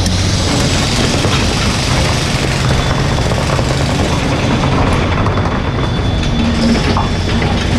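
Mini excavator's diesel engine running steadily, with dense mechanical noise over the engine note.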